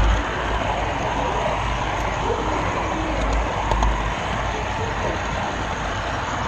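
Model railroad camera car rolling along the track, heard from a camera riding on it: a steady rumble and hiss of wheels and drive, with the low rumble swelling briefly near the start and again about halfway through.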